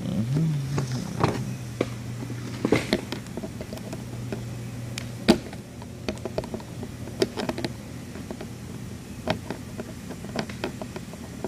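Electric mattress blower running on test with a steady low hum that briefly rises in pitch and settles, then cuts off about four seconds in. Scattered clicks and taps of parts and tools being handled follow.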